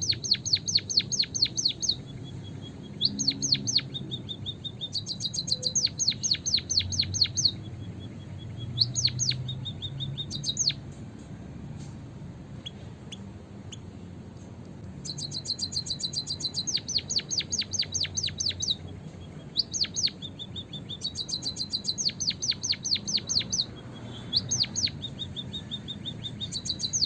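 White-headed munia (emprit kaji) song played as a lure call. It comes in repeated bursts of rapid, high ticking notes, about ten a second, with a thin, steady high whistle between some of the bursts.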